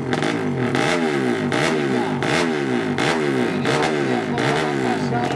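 Drag-racing motorcycle engine being revved in quick, repeated throttle blips, about three every two seconds. Each blip rises and falls in pitch and ends with a sharp crack from the exhaust.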